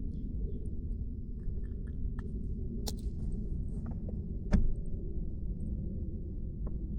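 Scattered clicks and knocks of fishing gear being handled aboard a plastic kayak as a small trout is landed, the loudest knock about four and a half seconds in, over a steady low rumble of wind on the microphone.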